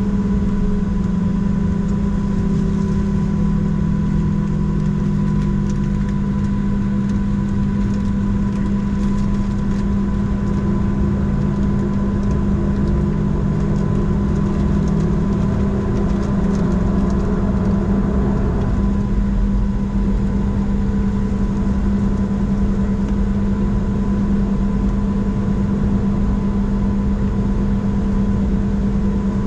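Boeing 737-700's CFM56-7B turbofan engines running at idle: a steady low hum with a thin steady high tone over it. Fainter tones in between slide slowly up and down through the first two-thirds, then settle.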